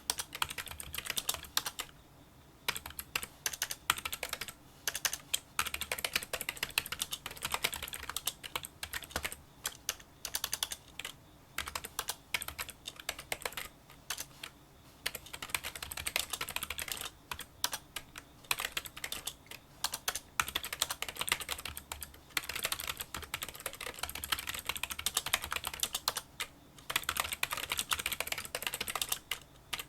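Fast touch-typing on a Kinesis Freestyle Solo split keyboard with membrane key switches: rapid, small clicking keystrokes in quick runs, broken by a few short pauses.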